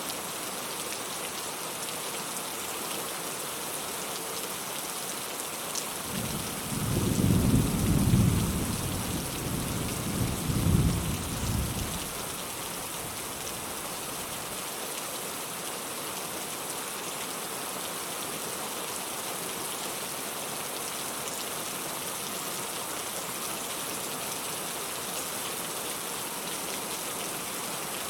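Steady rain falling, with a roll of distant thunder rumbling low about six seconds in, swelling twice and fading out after about six seconds.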